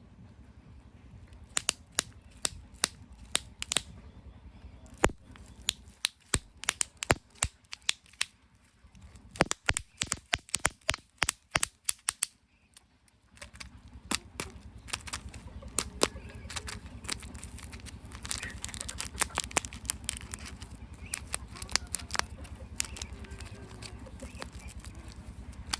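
Irregular sharp clicks and crackles of plastic surprise eggs and wrappers being handled and opened by hand, with a steady low hum in the second half.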